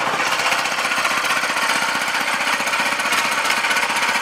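A 6.5 horsepower single-cylinder petrol engine, a Chinese Honda clone, fitted in an old Farmall tractor, running steadily with a fast, even beat.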